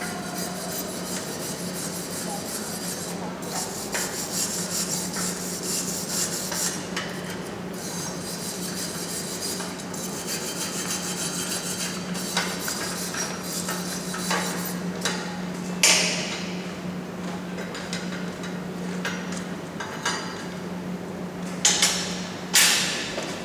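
Scraping and rubbing on metal, with a few sharp hammer strikes, the loudest once about two-thirds in and twice near the end, over a steady low hum.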